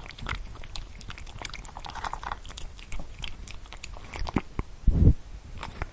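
Irregular crunching clicks of an animal chewing, with one low thump about five seconds in.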